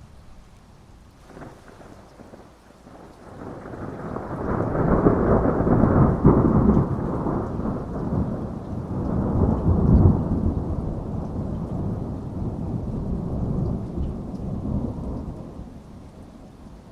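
A long roll of thunder over steady rain: the rumble builds from a few seconds in, peaks twice, and dies away near the end.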